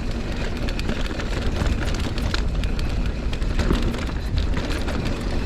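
Mountain bike rolling down a hard-packed dirt trail: wind buffeting the microphone with a steady low rumble, over tyre noise and scattered clicks and rattles from the bike on the ground.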